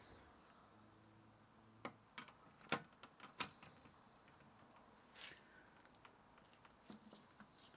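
Near silence broken by a few light, sharp clicks, irregularly spaced, the loudest a little under three seconds in.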